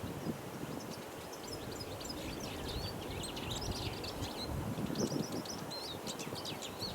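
Male Eurasian siskin singing a fast, continuous twittering song of quick high chirps and trills. A low rustling noise, such as wind, swells about five seconds in.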